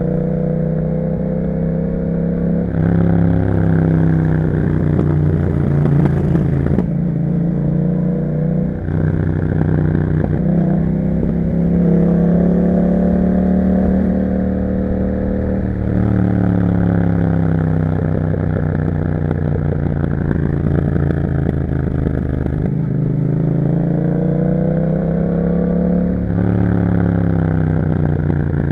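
2021 Yamaha MT-07's crossplane parallel-twin engine through an Akrapovic exhaust, ridden under way: the note rises and falls with the throttle, broken by several quick gear changes.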